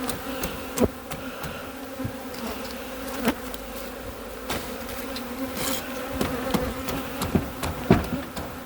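Honeybee colony buzzing steadily as a low, even hum from the opened hive, with scattered sharp clicks and knocks on top.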